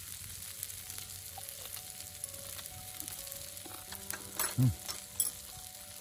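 Chicken keel cartilage (yagen nankotsu) sizzling in oil on a hot griddle pan, a steady frying hiss with scattered small crackles. A louder pop stands out about four and a half seconds in.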